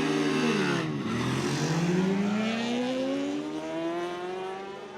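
A vehicle engine accelerating: its pitch dips briefly, then climbs in one smooth, steady rise for about four seconds, fading slightly near the end.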